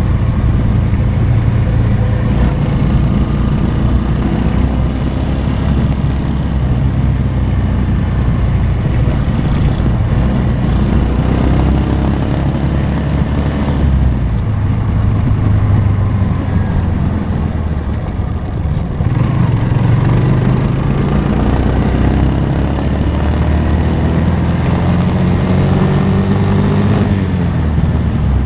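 Motorcycle engine running while riding, its pitch rising and falling with the throttle; it eases off about eighteen seconds in, then picks up again.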